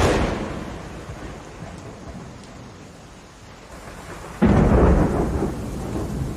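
Summer rainstorm: steady rain falling, with two thunderclaps. A sharp crack at the start fades over a second or two, and a second, louder clap with a deep rumble breaks about four and a half seconds in and keeps rolling.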